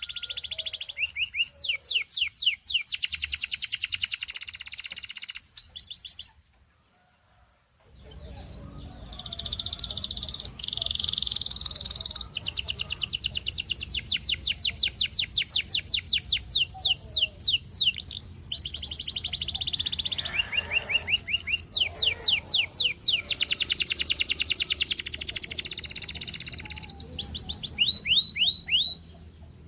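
Canary singing long, fast trills of rapidly repeated downward-sweeping notes, switching between rolls at different pitches. The song breaks off about six seconds in for a second and a half, then resumes over a faint low hum.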